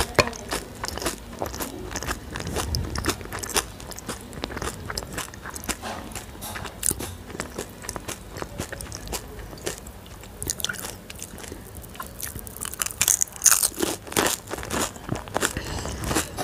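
Crunching and chewing of pani puri: the crisp hollow puri shells crack between the teeth in many sharp crunches, with a denser run of crunches about three-quarters of the way through.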